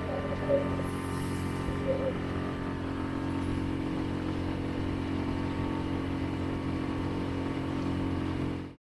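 Tohatsu 6 HP four-stroke outboard motor running steadily at full throttle. The sound cuts off abruptly near the end.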